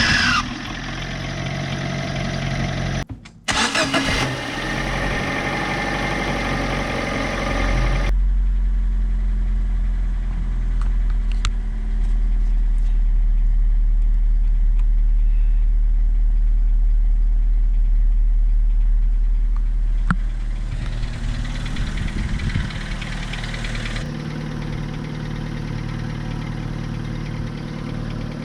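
Fiat Seicento engine being started and then idling steadily, its starter motor freshly cleaned to cure a noise.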